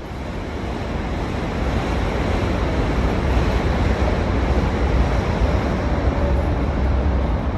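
Steady outdoor rush with a heavy low rumble, fading in over the first couple of seconds.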